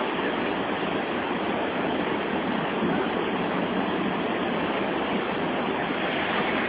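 Steady, unbroken rush of the rapids of the Santo Antônio waterfall.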